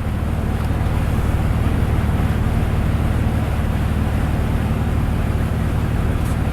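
Vehicle driving, heard from inside the cab: a steady low engine drone under a rushing wash of tyres through shallow floodwater on the road, a little louder after the first second.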